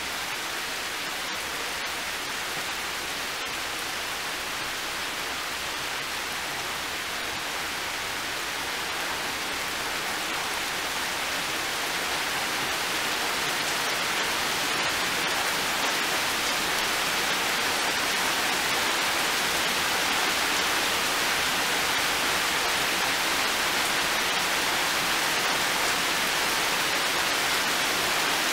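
Heavy rain pouring steadily onto garden foliage and a metal shed, a dense even hiss that slowly grows louder partway through.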